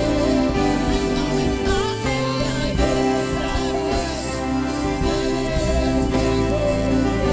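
Live gospel worship music: a band playing with a singer's wordless vocal runs over sustained chords.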